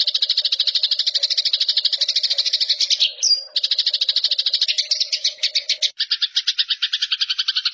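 Eurasian tree sparrow giving its fast, harsh chattering fight call: a rapid string of buzzy notes, broken once about three seconds in by a short higher chirp.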